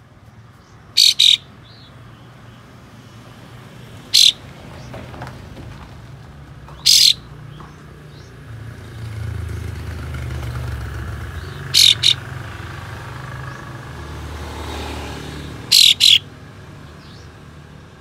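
Kapas tembak bird (olive-winged bulbul) giving short, sharp, loud 'shot' calls, singly or in quick pairs, every few seconds, over a low background rumble that swells in the middle.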